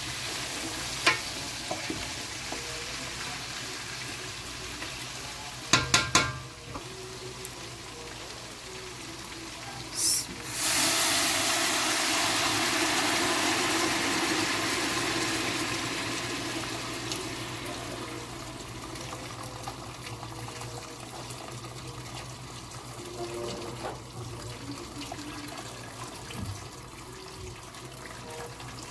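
Chicken pulao frying in a pot, with a few sharp metal knocks around six seconds in. Just after ten seconds a loud hiss starts suddenly and dies away over several seconds.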